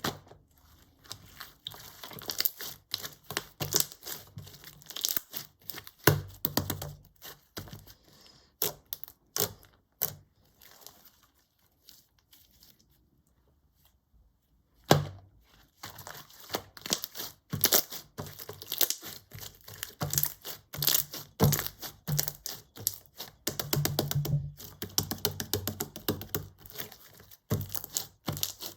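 Clear slime full of air bubbles being squeezed and pressed by hand, giving dense crackling, clicking and popping. The handling stops for about three seconds partway through, then resumes.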